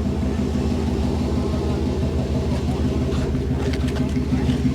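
A car engine running close by at a steady idle, its low hum unchanging.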